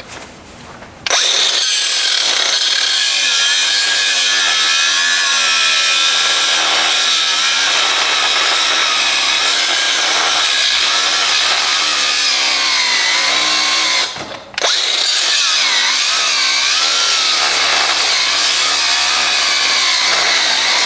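Grinder with a cut-off wheel slitting a stuck steel part from a Subaru six-speed transmission. It runs loud under load with its pitch wavering as the wheel bites. It starts about a second in, stops briefly about two-thirds of the way through, then cuts again.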